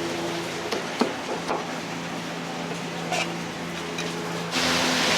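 Commercial kitchen with a steady hum and scattered clinks and knocks of utensils. About four and a half seconds in, a loud sizzle starts as food goes into a hot wok to fry.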